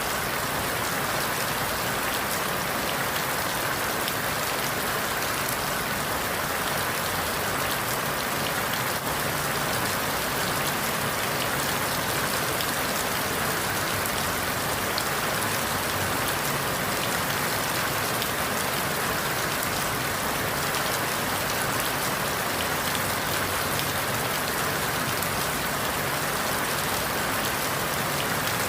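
Steady rain falling through forest leaves, an even hiss with fine scattered drop ticks.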